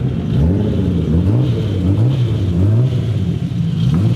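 Car engines revving, the pitch rising and falling again and again.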